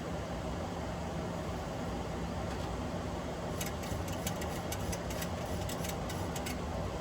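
Steady Boeing 737-800 flight-deck noise in flight: an even rush of airflow and air-conditioning with a low engine hum. From about halfway through, a quick run of a dozen or so faint clicks sounds over it for about three seconds.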